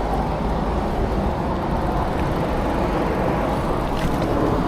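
Steady rushing wind and road noise on a bicycle-mounted action camera while riding, with a faint click about four seconds in.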